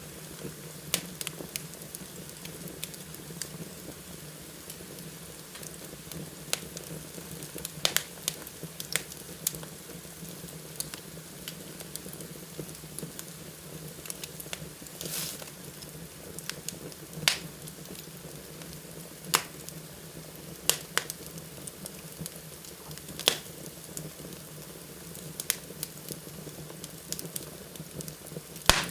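Fire burning in a fireplace, crackling with irregular sharp pops over a steady hiss, and a brief hiss about halfway through.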